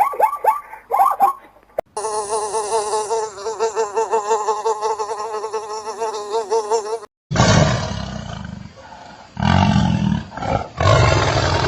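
Animal sounds one after another: a few quick bird calls, each falling in pitch, then a steady, wavering insect-like buzz for about five seconds, then three loud, rough big-cat roars, the loudest part.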